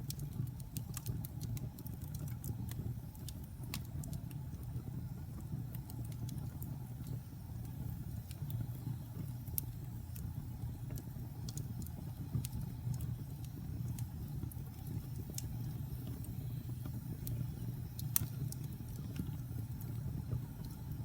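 Wood fire burning in a fireplace: irregular sharp crackles and pops over a steady low rumble of the flames, with one louder pop near the end.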